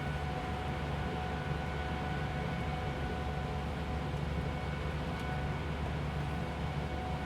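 Interior of a coach bus driving on the highway: a steady low rumble of engine and road noise, with faint steady whining tones above it.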